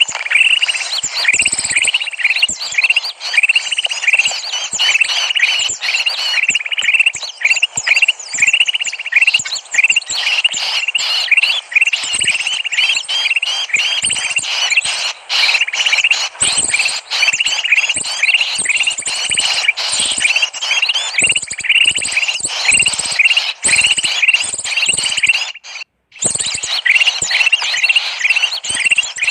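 Small birds chirping rapidly and without pause in dense, overlapping high-pitched calls: a bird-lure (pikat) recording used to attract small birds. The sound cuts out briefly about three-quarters of the way through, then resumes.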